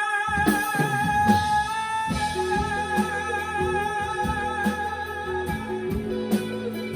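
Live rock band playing: a long held note dies away about two seconds in, then electric guitar carries on over bass and drums.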